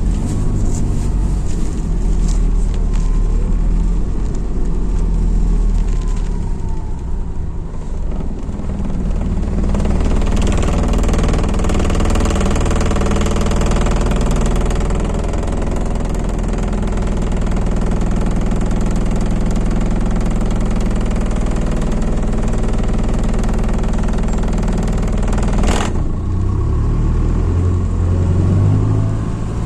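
MAZ-206 city bus engine and running noise heard from inside the bus, with a steady low hum. The noise grows fuller about a third of the way in as the bus moves on. A single sharp knock comes near the end, after which the engine hum drops lower.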